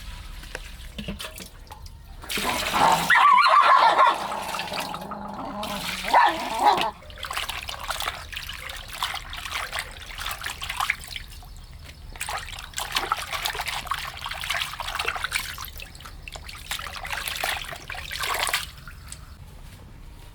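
Water pouring in a loud rush for a few seconds, then irregular splashing and sloshing, as in hand-washing something in a basin.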